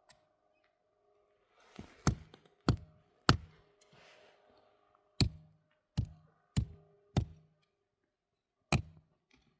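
Hand tool striking something hard to knock a hole in it: about nine sharp blows in short runs roughly every half second, each a knock with a faint ringing tone after, and a brief crumbling or scraping between blows about two to four seconds in.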